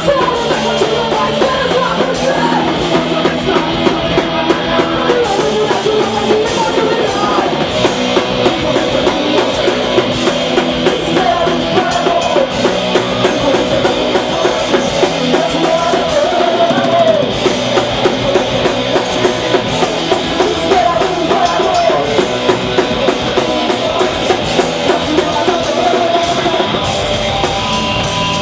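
Hardcore punk band playing live, a fast drum kit driving under loud, dense rock instruments.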